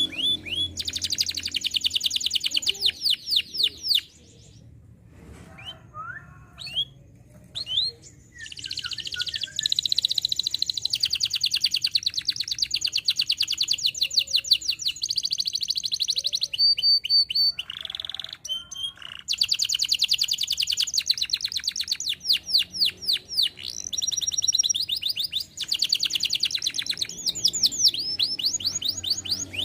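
Canary singing long runs of rapid, high trills. About four seconds in there is a softer spell of scattered single notes lasting a few seconds before the trilling resumes.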